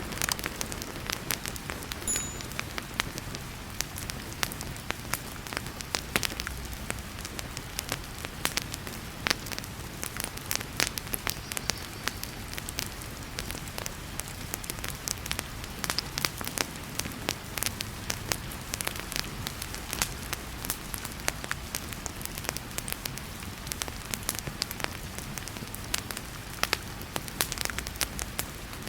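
Wood fire crackling in a fireplace, with frequent sharp pops and snaps over the steady hiss of heavy rain.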